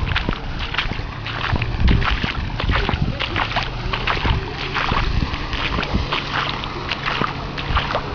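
Fast, irregular clattering and knocking over a low rumble, as household objects rattle during an earthquake.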